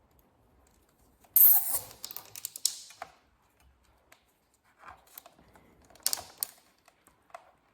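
Nylon cable tie being pulled tight through its ratchet head: a rapid run of clicks starting about a second and a half in and lasting over a second, then a shorter burst of clicks around six seconds in.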